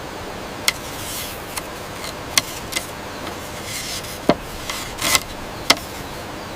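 Irregular sharp knocks and clicks, about seven of them, with some scraping between, over a steady hiss.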